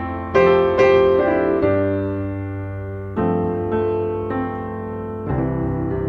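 Background music: piano chords struck every second or so and left to ring and fade.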